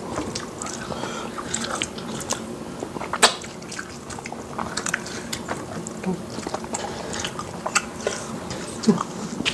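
Close-miked eating sounds: chewing and wet mouth clicks of people eating fufu, soup, meat and fish with their hands, with one louder click about three seconds in.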